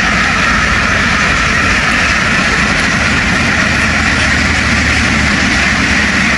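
A boat's engine running steadily under the dense, continuous calling of a large flock of ducks.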